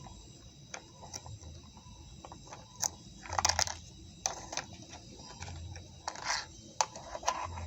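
Small plastic toy-food pieces and a toy refrigerator being handled: scattered light plastic clicks and clatters, with louder rattling clusters about three and a half and six seconds in.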